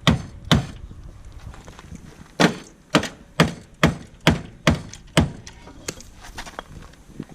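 A run of heavy hammer blows on the Nissan 240SX's crumpled front-end sheet metal, about two a second, beating the crash damage back out. Two blows, a short pause, then seven more before they stop, leaving only faint knocks.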